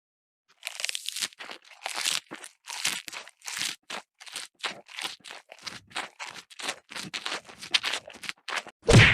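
A quick series of short crunching, scraping strokes, about three a second, starting after half a second of silence.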